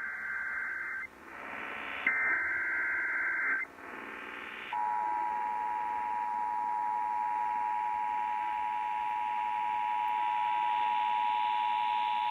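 NOAA Weather Radio Emergency Alert System signal. Two buzzing bursts of SAME digital header data a second or so apart, with radio hiss between them, are followed about five seconds in by the steady 1050 Hz warning alarm tone, which marks a new warning about to be broadcast.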